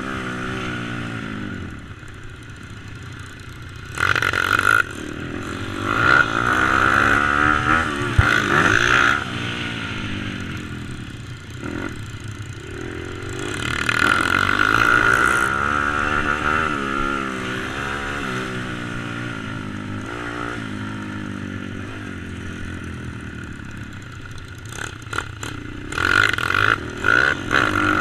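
Stomp Z140 pit bike's tuned YX140 four-stroke single-cylinder engine being ridden, its revs rising and falling again and again through the gears. There are several louder bursts of hard acceleration, one a few seconds in, a longer one around the middle and another near the end.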